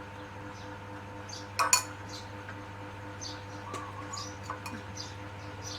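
Spoon clinking against a dish during feeding: two sharp clinks about a second and a half in, then a scatter of lighter taps and scrapes.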